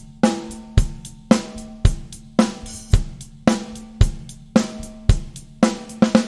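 Drum kit beat featuring a fiberglass Monolith snare drum with a coated Powerstroke head: bass drum and snare alternate about every half second, the snare ringing with a clear pitch after each hit, and a quick fill of several fast strokes near the end.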